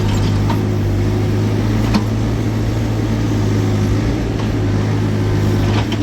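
Steady low drone of a running motor vehicle engine, with a few faint knocks.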